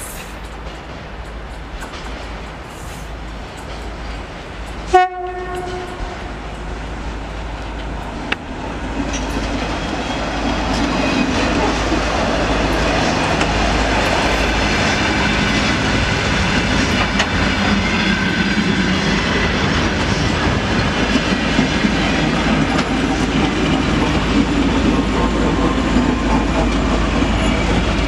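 A single short horn toot about five seconds in, then a maintenance train passing close: wheels clattering over rail joints and rolling noise that grows loud from about ten seconds in, with a 2M62 diesel locomotive in the consist going by near the end.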